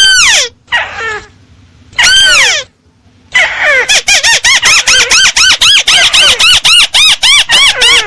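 Bird-lure recording of a tikusan (crake) call: a few separate loud notes that rise and fall in pitch, a brief gap, then from about three seconds in a fast, even run of the same notes, about four to five a second.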